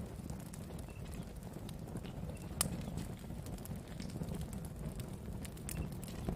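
Wood campfire burning: a steady low rumble of flames with scattered sharp crackles and pops of burning wood, the loudest about two and a half seconds in.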